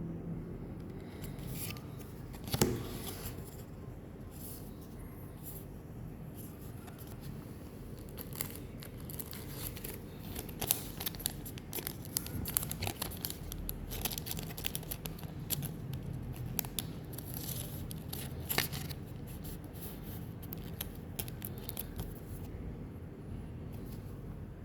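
Pokémon card booster pack being opened: its foil wrapper crinkles and tears, and the cards rustle and snap as they are handled. One sharp click comes a few seconds in, and the crinkling and snapping grow busiest around the middle.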